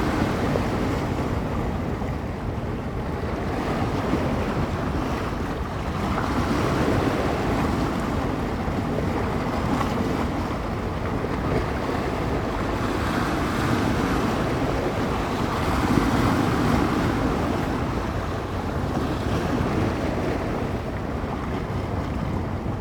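Small waves on San Francisco Bay washing and breaking against the shore, the wash swelling and easing every few seconds, with wind buffeting the microphone as a steady low rumble.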